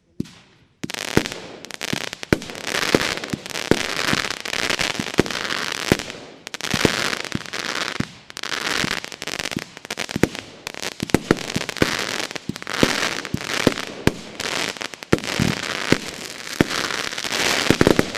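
A firework battery of 20, 25 and 30 mm calibre shots firing continuously. Several sharp launch thumps and bursts a second ring out over a steady crackling, starting about a second in.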